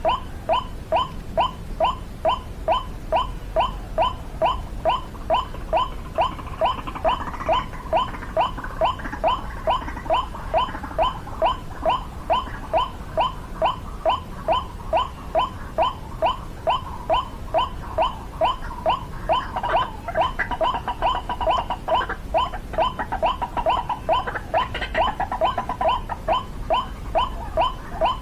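White-breasted waterhen calls: one short call repeated in a steady, even rhythm about two and a half times a second. A second, fainter and less regular calling joins in about a quarter of the way through, and again more strongly past the middle.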